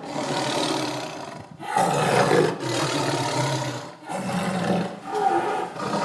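Tiger roaring: a run of about five loud roars, one after another with brief breaks between them.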